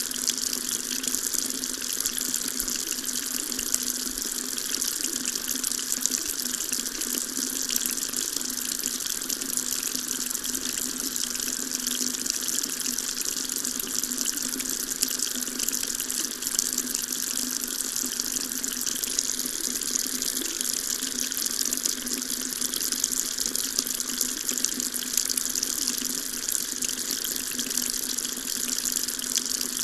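Water tap running steadily, a constant splashing hiss of the stream into a sink with no change in flow.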